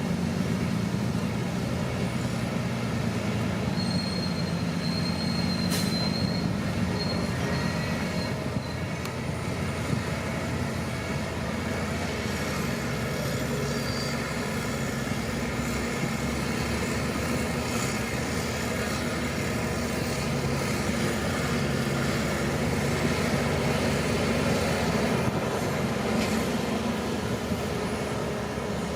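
Shantui crawler bulldozer working: its diesel engine runs steadily under load while the steel tracks clank and squeal, with a brief high squeal about four to seven seconds in.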